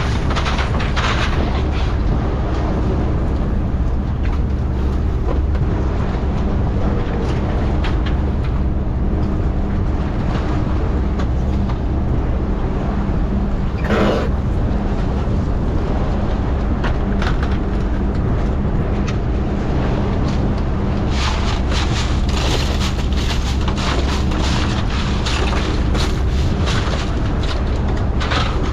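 Fishing boat's engine running at a steady hum, with rushing wind and water noise that swells about a second in, halfway through, and again near the end.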